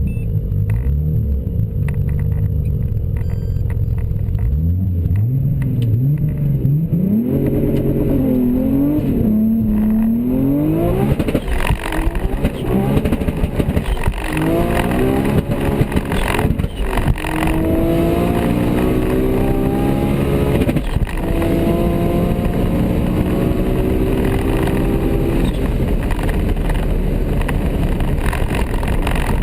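High-revving performance car engine blipped up and down, then accelerating hard through several gears, its pitch climbing and dropping back at each shift.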